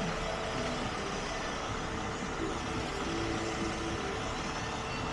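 A truck engine idling with a steady hum.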